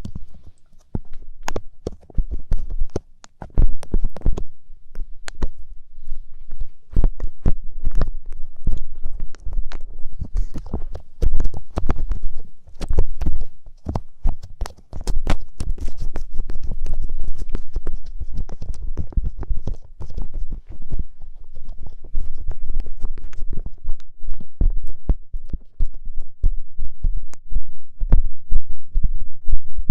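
Light-up ear pick scraping and tapping in an ear close to the microphone: dense, irregular scratchy clicks over low thudding rumbles.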